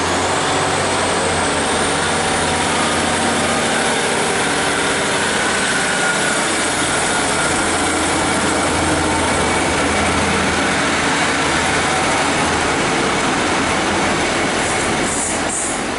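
Passenger train running at a station platform: a loud, steady engine-and-rail noise, with a couple of brief high-pitched squeals near the end.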